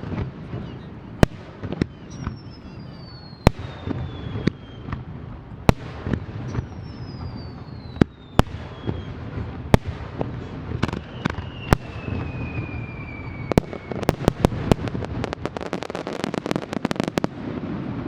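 Aerial fireworks display: sharp shell bursts bang every second or so, and three falling whistles sound through the middle. About fourteen seconds in, a rapid volley of many bangs runs for a few seconds.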